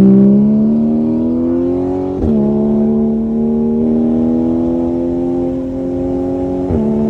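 Car engine pulling hard under acceleration, its pitch climbing steadily and dropping sharply at a gear upshift about two seconds in and again near the end.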